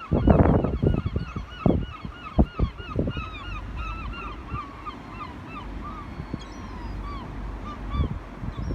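A flock of gulls calling, many short, arched cries overlapping one another. Low thumps and rumbles come in the first second and a few times after that.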